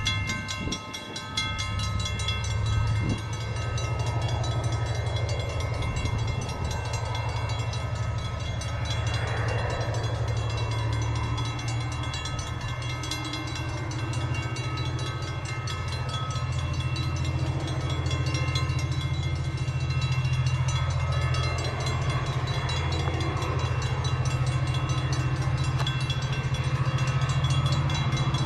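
Level crossing bell ringing steadily while an approaching EMD GT22MC diesel-electric locomotive's engine runs low and steady, growing slightly louder toward the end.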